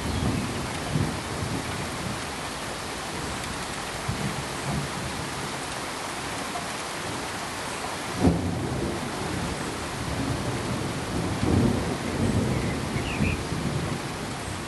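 Steady rain hiss with low rolling rumbles of thunder coming and going, the sharpest crack about eight seconds in and a cluster of rumbles near the end.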